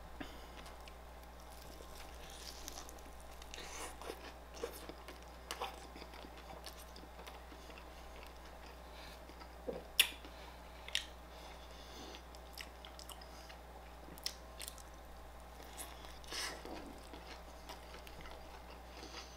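Close-miked biting and chewing of a breakfast sandwich (soft bun, fried egg, cheese and meat), with wet mouth sounds and scattered sharp clicks, the loudest about halfway through. A low steady hum runs underneath.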